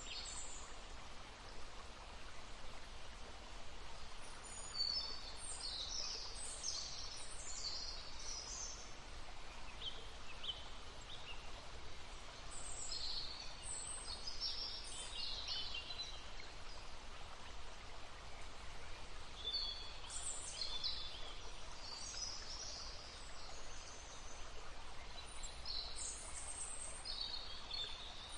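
A stream babbling steadily while small songbirds sing in several bursts of quick, high notes, with pauses of a few seconds between the phrases.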